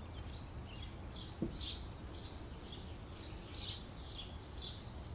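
Faint bird chirps, short high calls coming two or three a second, over a low steady outdoor hum.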